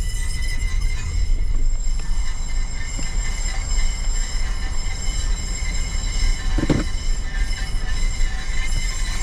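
Metallic scraping squeal from the driver's-side front wheel as the car rolls, a set of steady high ringing tones over a low rumble, with a short lower sound about two-thirds of the way in. It is metal rubbing on metal at the brake, which a mechanic takes for a stone stuck between the rotor and its shield.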